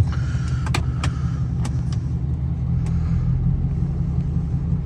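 Loud pickup truck engine idling steadily while warming up after a cold start, with a low rumble. A few sharp clicks sound over it in the first three seconds.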